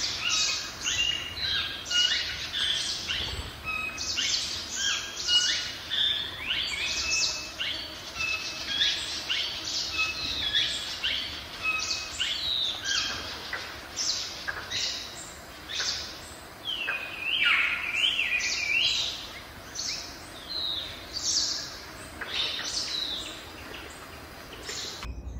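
Songbirds singing, a dense chorus of many short chirps and whistled notes, with a cluster of quick falling whistles about two-thirds of the way through.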